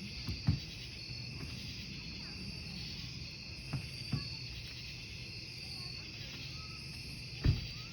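Campfire wood burning with sharp crackling pops, one about half a second in, two close together near the middle and a loud one near the end, over a steady chorus of crickets chirping.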